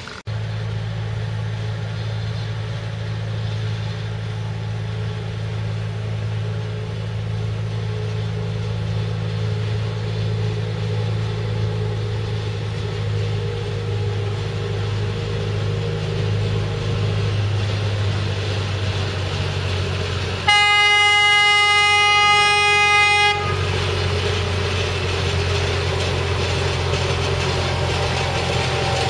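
Small Tanimura-type forest railway locomotive with its engine running steadily, and one loud horn blast of about three seconds roughly two-thirds of the way through.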